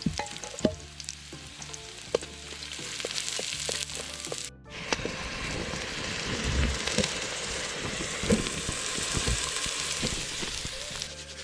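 Chopped onion and garlic frying in hot oil in a pot, a steady sizzle with scattered clicks and knocks. After a brief break about halfway, the sizzle is louder and fuller.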